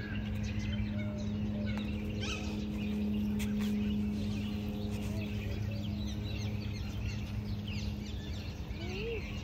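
Birds chirping and calling, with many short high chirps and a few sweeping lower calls, over a steady low hum and rumbling noise.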